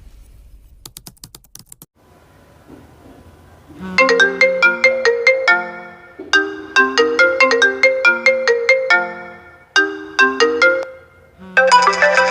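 iPhone ringtone playing: a bright melody of quick, short notes in repeated phrases, starting about four seconds in and turning fuller and denser near the end. A brief run of quick clicks comes about a second in.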